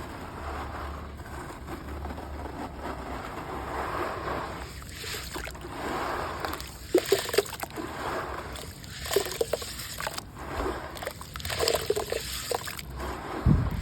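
Wet red mud being crumbled in water: gritty sloshing and trickling, with sharp crunchy snaps in clusters from about halfway through.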